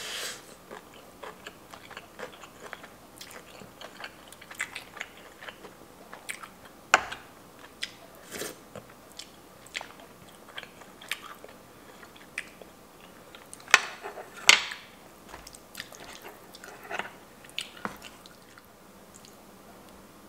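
Close-miked chewing of a mouthful of rice and chicken with gravy: soft, irregular wet chewing with small crunches. A few sharp clicks stand out, the loudest two about 14 seconds in.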